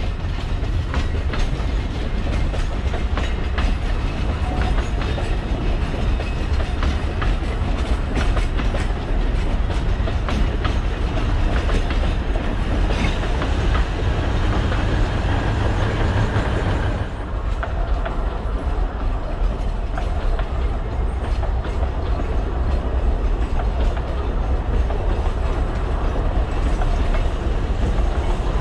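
Alishan Forest Railway narrow-gauge passenger train and its diesel locomotive passing close by: steady low rumble with wheels clattering over the rail joints. About two-thirds of the way through the higher clatter drops away and the rumble goes on.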